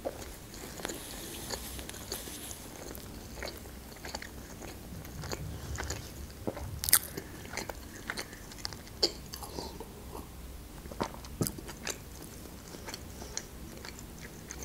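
Close-miked chewing of a soft lavash roll, with wet mouth clicks and smacks at irregular intervals and a few sharper clicks.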